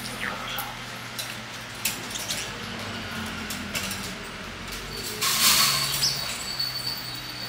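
Two parrots at a food dish: scattered sharp clicks and taps of beaks on seed and dish, with a short harsh hiss about five seconds in.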